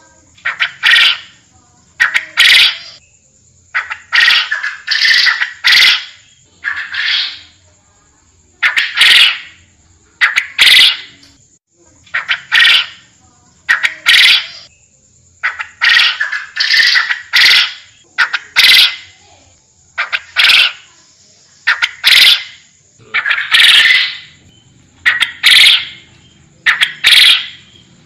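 Forest quail (puyuh hutan) calling, a loud rough call repeated over and over, about one every second to second and a half, each lasting under a second.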